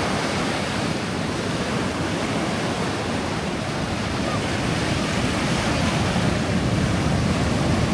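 Ocean surf washing onto the beach, a steady rush of breaking waves.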